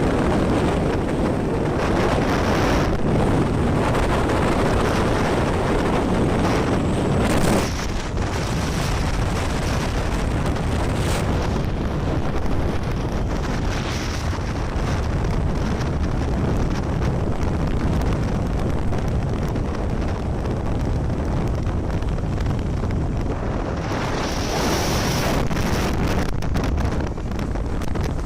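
Wind buffeting the microphone on a moving motorcycle, with a steady low rumble beneath; the buffeting eases about seven and a half seconds in.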